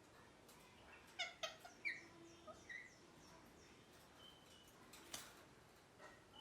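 Ringneck parakeet giving a few short, harsh calls between about one and three seconds in, then falling quiet. There is a single sharp click about five seconds in, and faint, high, falling chirps repeat in the background.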